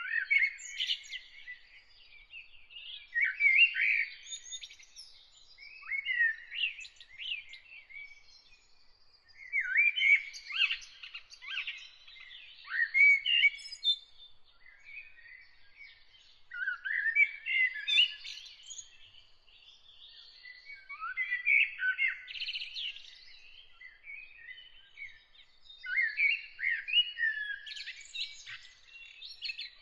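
A songbird singing varied phrases of about two seconds each, with short pauses between them, around nine phrases in all.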